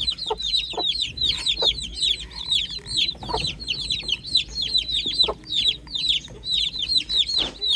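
A brood of chicks peeping continuously: rapid high cheeps that slide downward in pitch, several a second and overlapping, with a few brief lower sounds among them.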